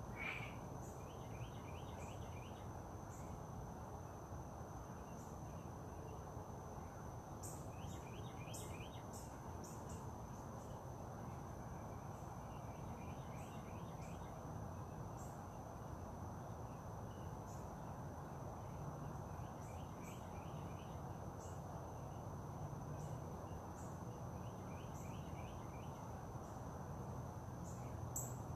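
Outdoor ambience: a steady, high, thin insect drone over a low even background hiss, with a bird singing a short trilled phrase about every five to six seconds.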